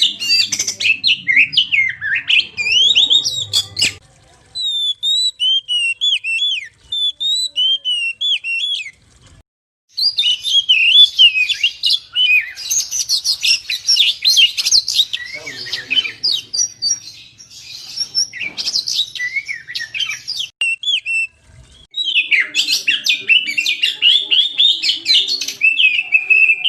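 Oriental magpie-robin (kacer) singing a fast, varied song of chirps and whistles in loud bursts, with short pauses about four, nine and twenty-one seconds in.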